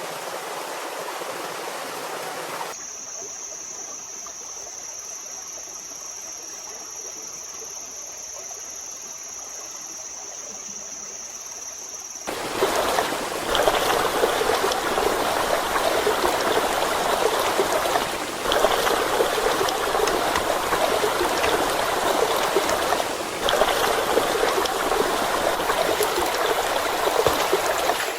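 Running water of a forest stream, a steady rushing and trickling. It changes abruptly at cuts: quieter with a thin, steady high-pitched whine over it for several seconds, then fuller and louder from about twelve seconds in.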